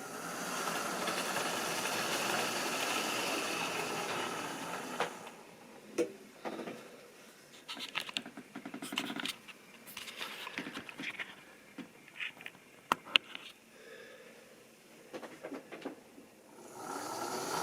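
Model railway train running on its track: a steady whir of the small locomotive motor and wheels for about five seconds, then a quieter stretch of scattered clicks and rattles, and the running whir returns near the end.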